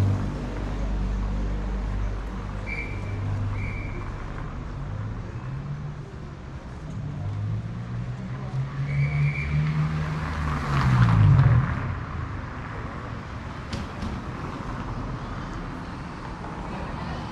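Street traffic: a vehicle engine hums low, then rises in pitch as it speeds up and passes close about eleven seconds in, the loudest moment. A few short high chirps sound briefly.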